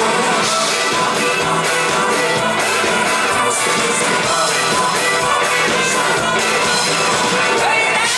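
Live rock band playing loudly through a PA, with a steady drum beat under guitars and other instruments.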